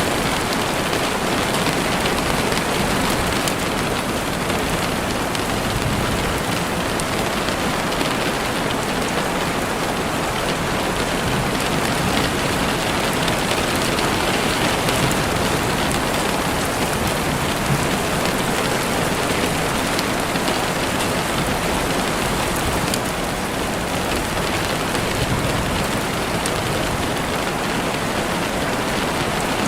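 Heavy rain falling steadily, a dense even hiss of drops on a window.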